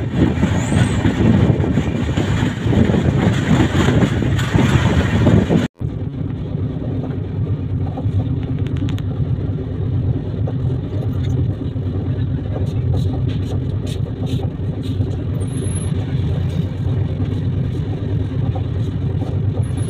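Steady running rumble of a moving Rajdhani Express train. About six seconds in the recording cuts briefly to silence, and the rumble then carries on duller, with the higher sounds gone.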